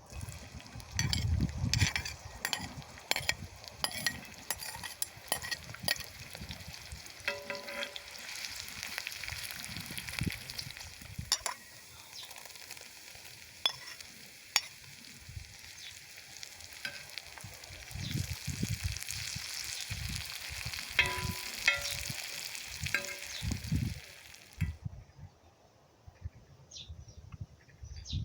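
Food sizzling and frying on a cast-iron saj, with a utensil scraping and tapping the pan now and then. The sizzle cuts off suddenly near the end.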